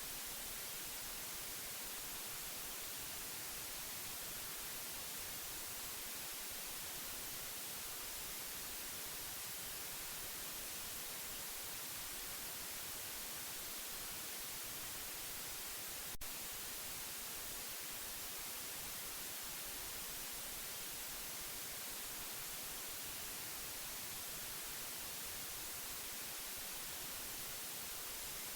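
Steady white noise: an even, unbroken hiss, brightest in the treble, broken once by a single sharp click just past halfway.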